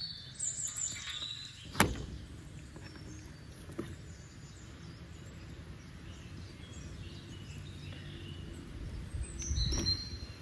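Small birds chirping in short high calls near the start and again near the end, over a low steady background noise, with one sharp knock about two seconds in.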